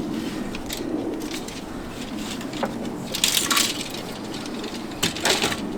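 Rustling and light knocking from gear being handled, with two louder rustling bursts about three seconds in and about five seconds in, over a steady background hiss.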